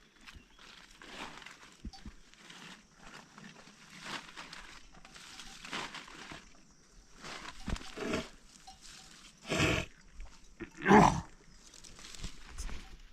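Animal calls: a run of short, rough sounds, then two louder pitched calls near the end, the second one the loudest.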